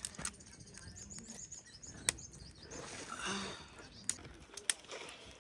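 Birds chirping, broken by several sharp clicks.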